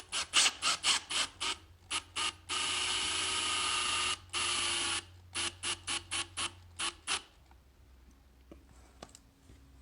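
Power drill with a stud-installation bit screwing a carbide-tipped traction stud into a dirt bike tire lug. It starts with a string of short trigger bursts, runs steadily for about two and a half seconds with one brief break, then ends with more short bursts as the stud seats flush.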